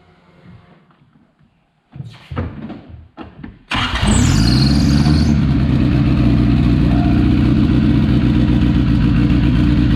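Turbocharged Honda Civic engine being started after its build: a few short bursts of cranking, then it catches about four seconds in and runs at a loud, steady idle. A brief high squeal falls in pitch just after it fires.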